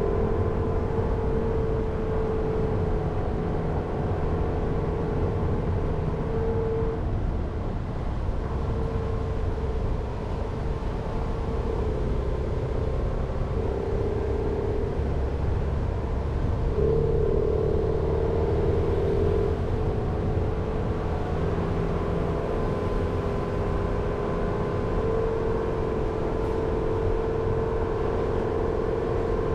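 Jeep Renegade driving slowly: a steady engine drone with low road rumble and a mid-pitched hum whose pitch steps down and back up a few times as the engine load changes.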